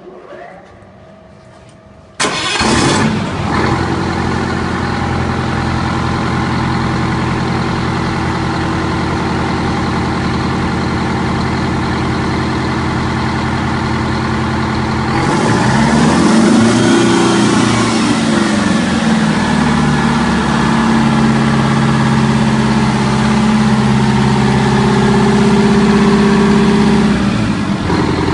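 Overhauled Detroit Diesel Series 71 two-stroke diesel engine starting about two seconds in and running steadily on its break-in test. About halfway through, the engine speed is raised and it runs higher and brighter, easing back just before the end.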